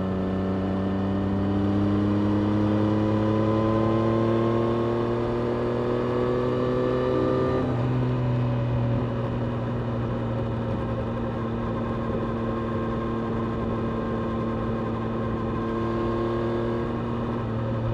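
Triumph Street Triple RS 765 cc three-cylinder engine heard on board, pulling with a slowly rising pitch for about eight seconds, then dropping suddenly in pitch and running steadily.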